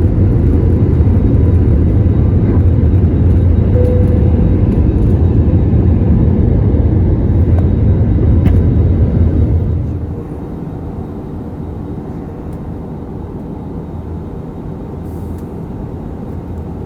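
Jet airliner cabin noise during takeoff: a loud, deep, steady rumble from the engines at full power and the takeoff roll, which drops sharply about ten seconds in and carries on as a quieter steady drone.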